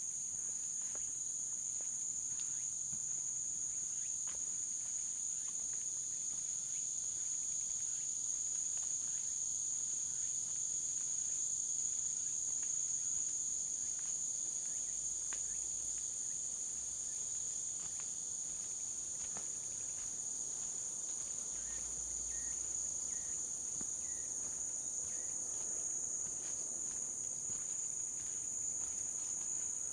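Steady chorus of insects: a continuous high-pitched trill that holds even and unbroken.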